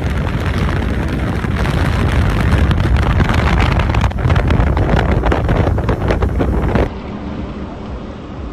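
Wind buffeting the microphone over a running boat and water, loud and gusty. About seven seconds in it cuts to a quieter stretch of similar wind and water noise.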